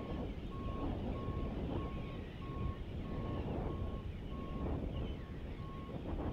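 Vehicle reversing alarm beeping evenly, about one and a half beeps a second, over a loud low rumble.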